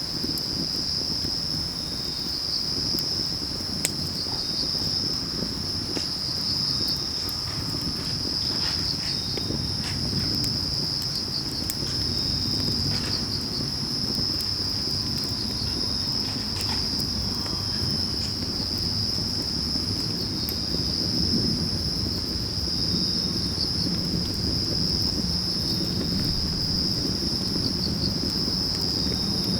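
Crickets and other autumn grass insects trilling steadily at a high pitch, with a wood fire giving off scattered small crackles and a low rumble beneath.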